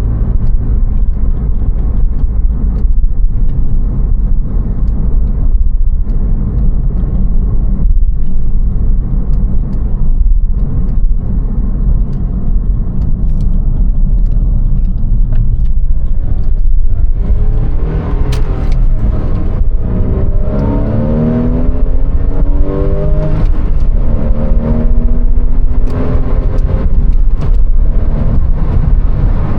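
2001 Porsche 911 Carrera 4's flat-six engine running under a steady heavy rumble. About halfway through it begins to rev up again and again in rising sweeps, each climbing and then breaking off, like a car pulling through the gears.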